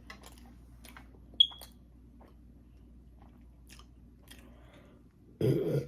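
Close-miked eating: soft chewing with small wet mouth clicks. About a second and a half in there is a sharp clink that rings briefly, like a fork on a plate. Near the end comes a louder, low-pitched burp.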